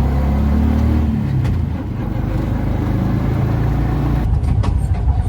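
Auto-rickshaw engine running as it drives along a road, with a steady low drone and a burst of rattling and knocks about four seconds in.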